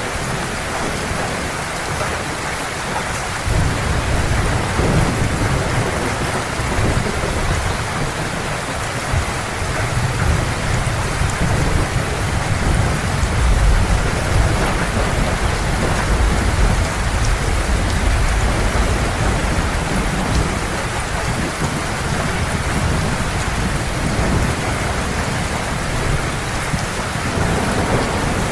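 Heavy rain falling steadily, with low rolls of thunder rumbling beneath it. The thunder swells a few seconds in, and again for a longer stretch through the middle, where it is loudest.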